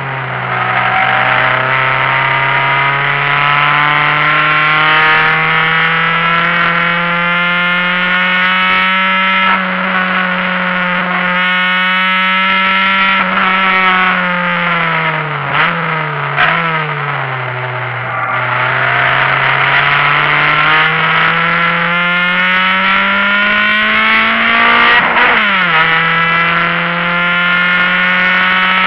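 Honda Civic hatchback's four-cylinder engine under hard acceleration, heard from inside the cabin, its note climbing steadily through long pulls in gear. About halfway it falls away with two quick blips, as in braking and downshifting for a corner, then climbs again. A few seconds before the end it drops suddenly for an upshift and starts climbing once more.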